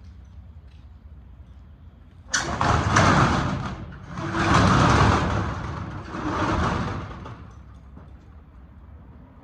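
Metal roll-up door of a storage unit rattling open, starting suddenly and coming in three long pushes before it stops.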